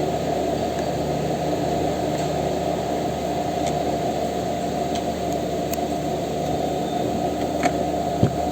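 Steady hum and hiss, strongest in the low range, with a few faint clicks near the end.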